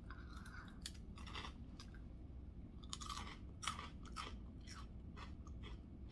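A person chewing food, with faint irregular crunches.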